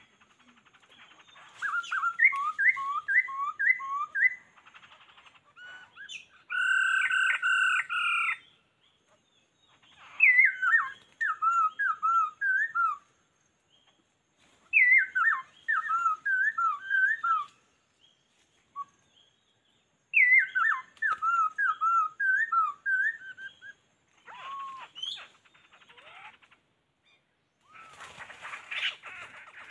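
A bird singing in repeated phrases of quick up-and-down whistled notes, each phrase about three seconds long with pauses between. A steady, held whistle sounds once between them. A rougher, noisier burst comes near the end.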